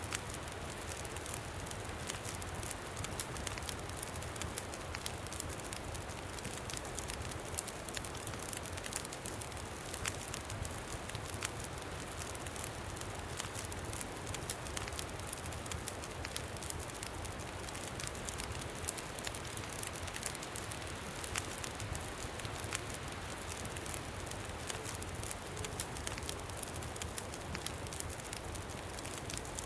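Campfire crackling with frequent small pops, over a steady low rumble of wind.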